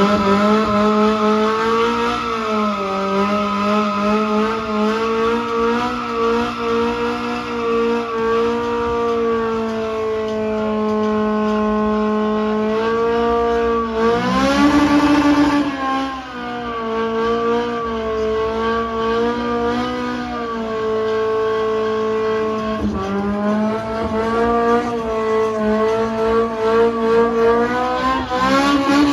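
A car engine held at high, nearly steady revs while its tyres squeal, as in a burnout with the driven wheel spinning. The revs drop and climb sharply again about halfway through, then settle back to a steady high pitch.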